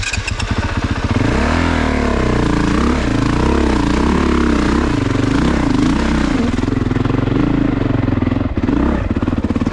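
Honda CRF450RX dirt bike's single-cylinder four-stroke engine running, revved up and down unevenly for several seconds and then held at a steadier note from about six and a half seconds in.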